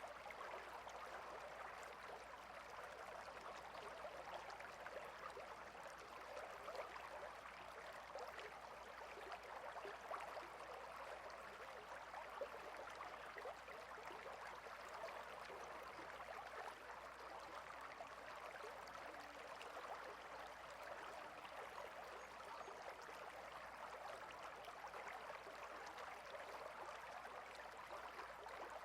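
A small stream flowing and burbling steadily, faint and unchanging.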